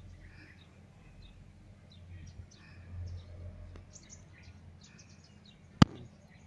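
Small birds chirping on and off in short calls over a steady low rumble, with one sharp click near the end.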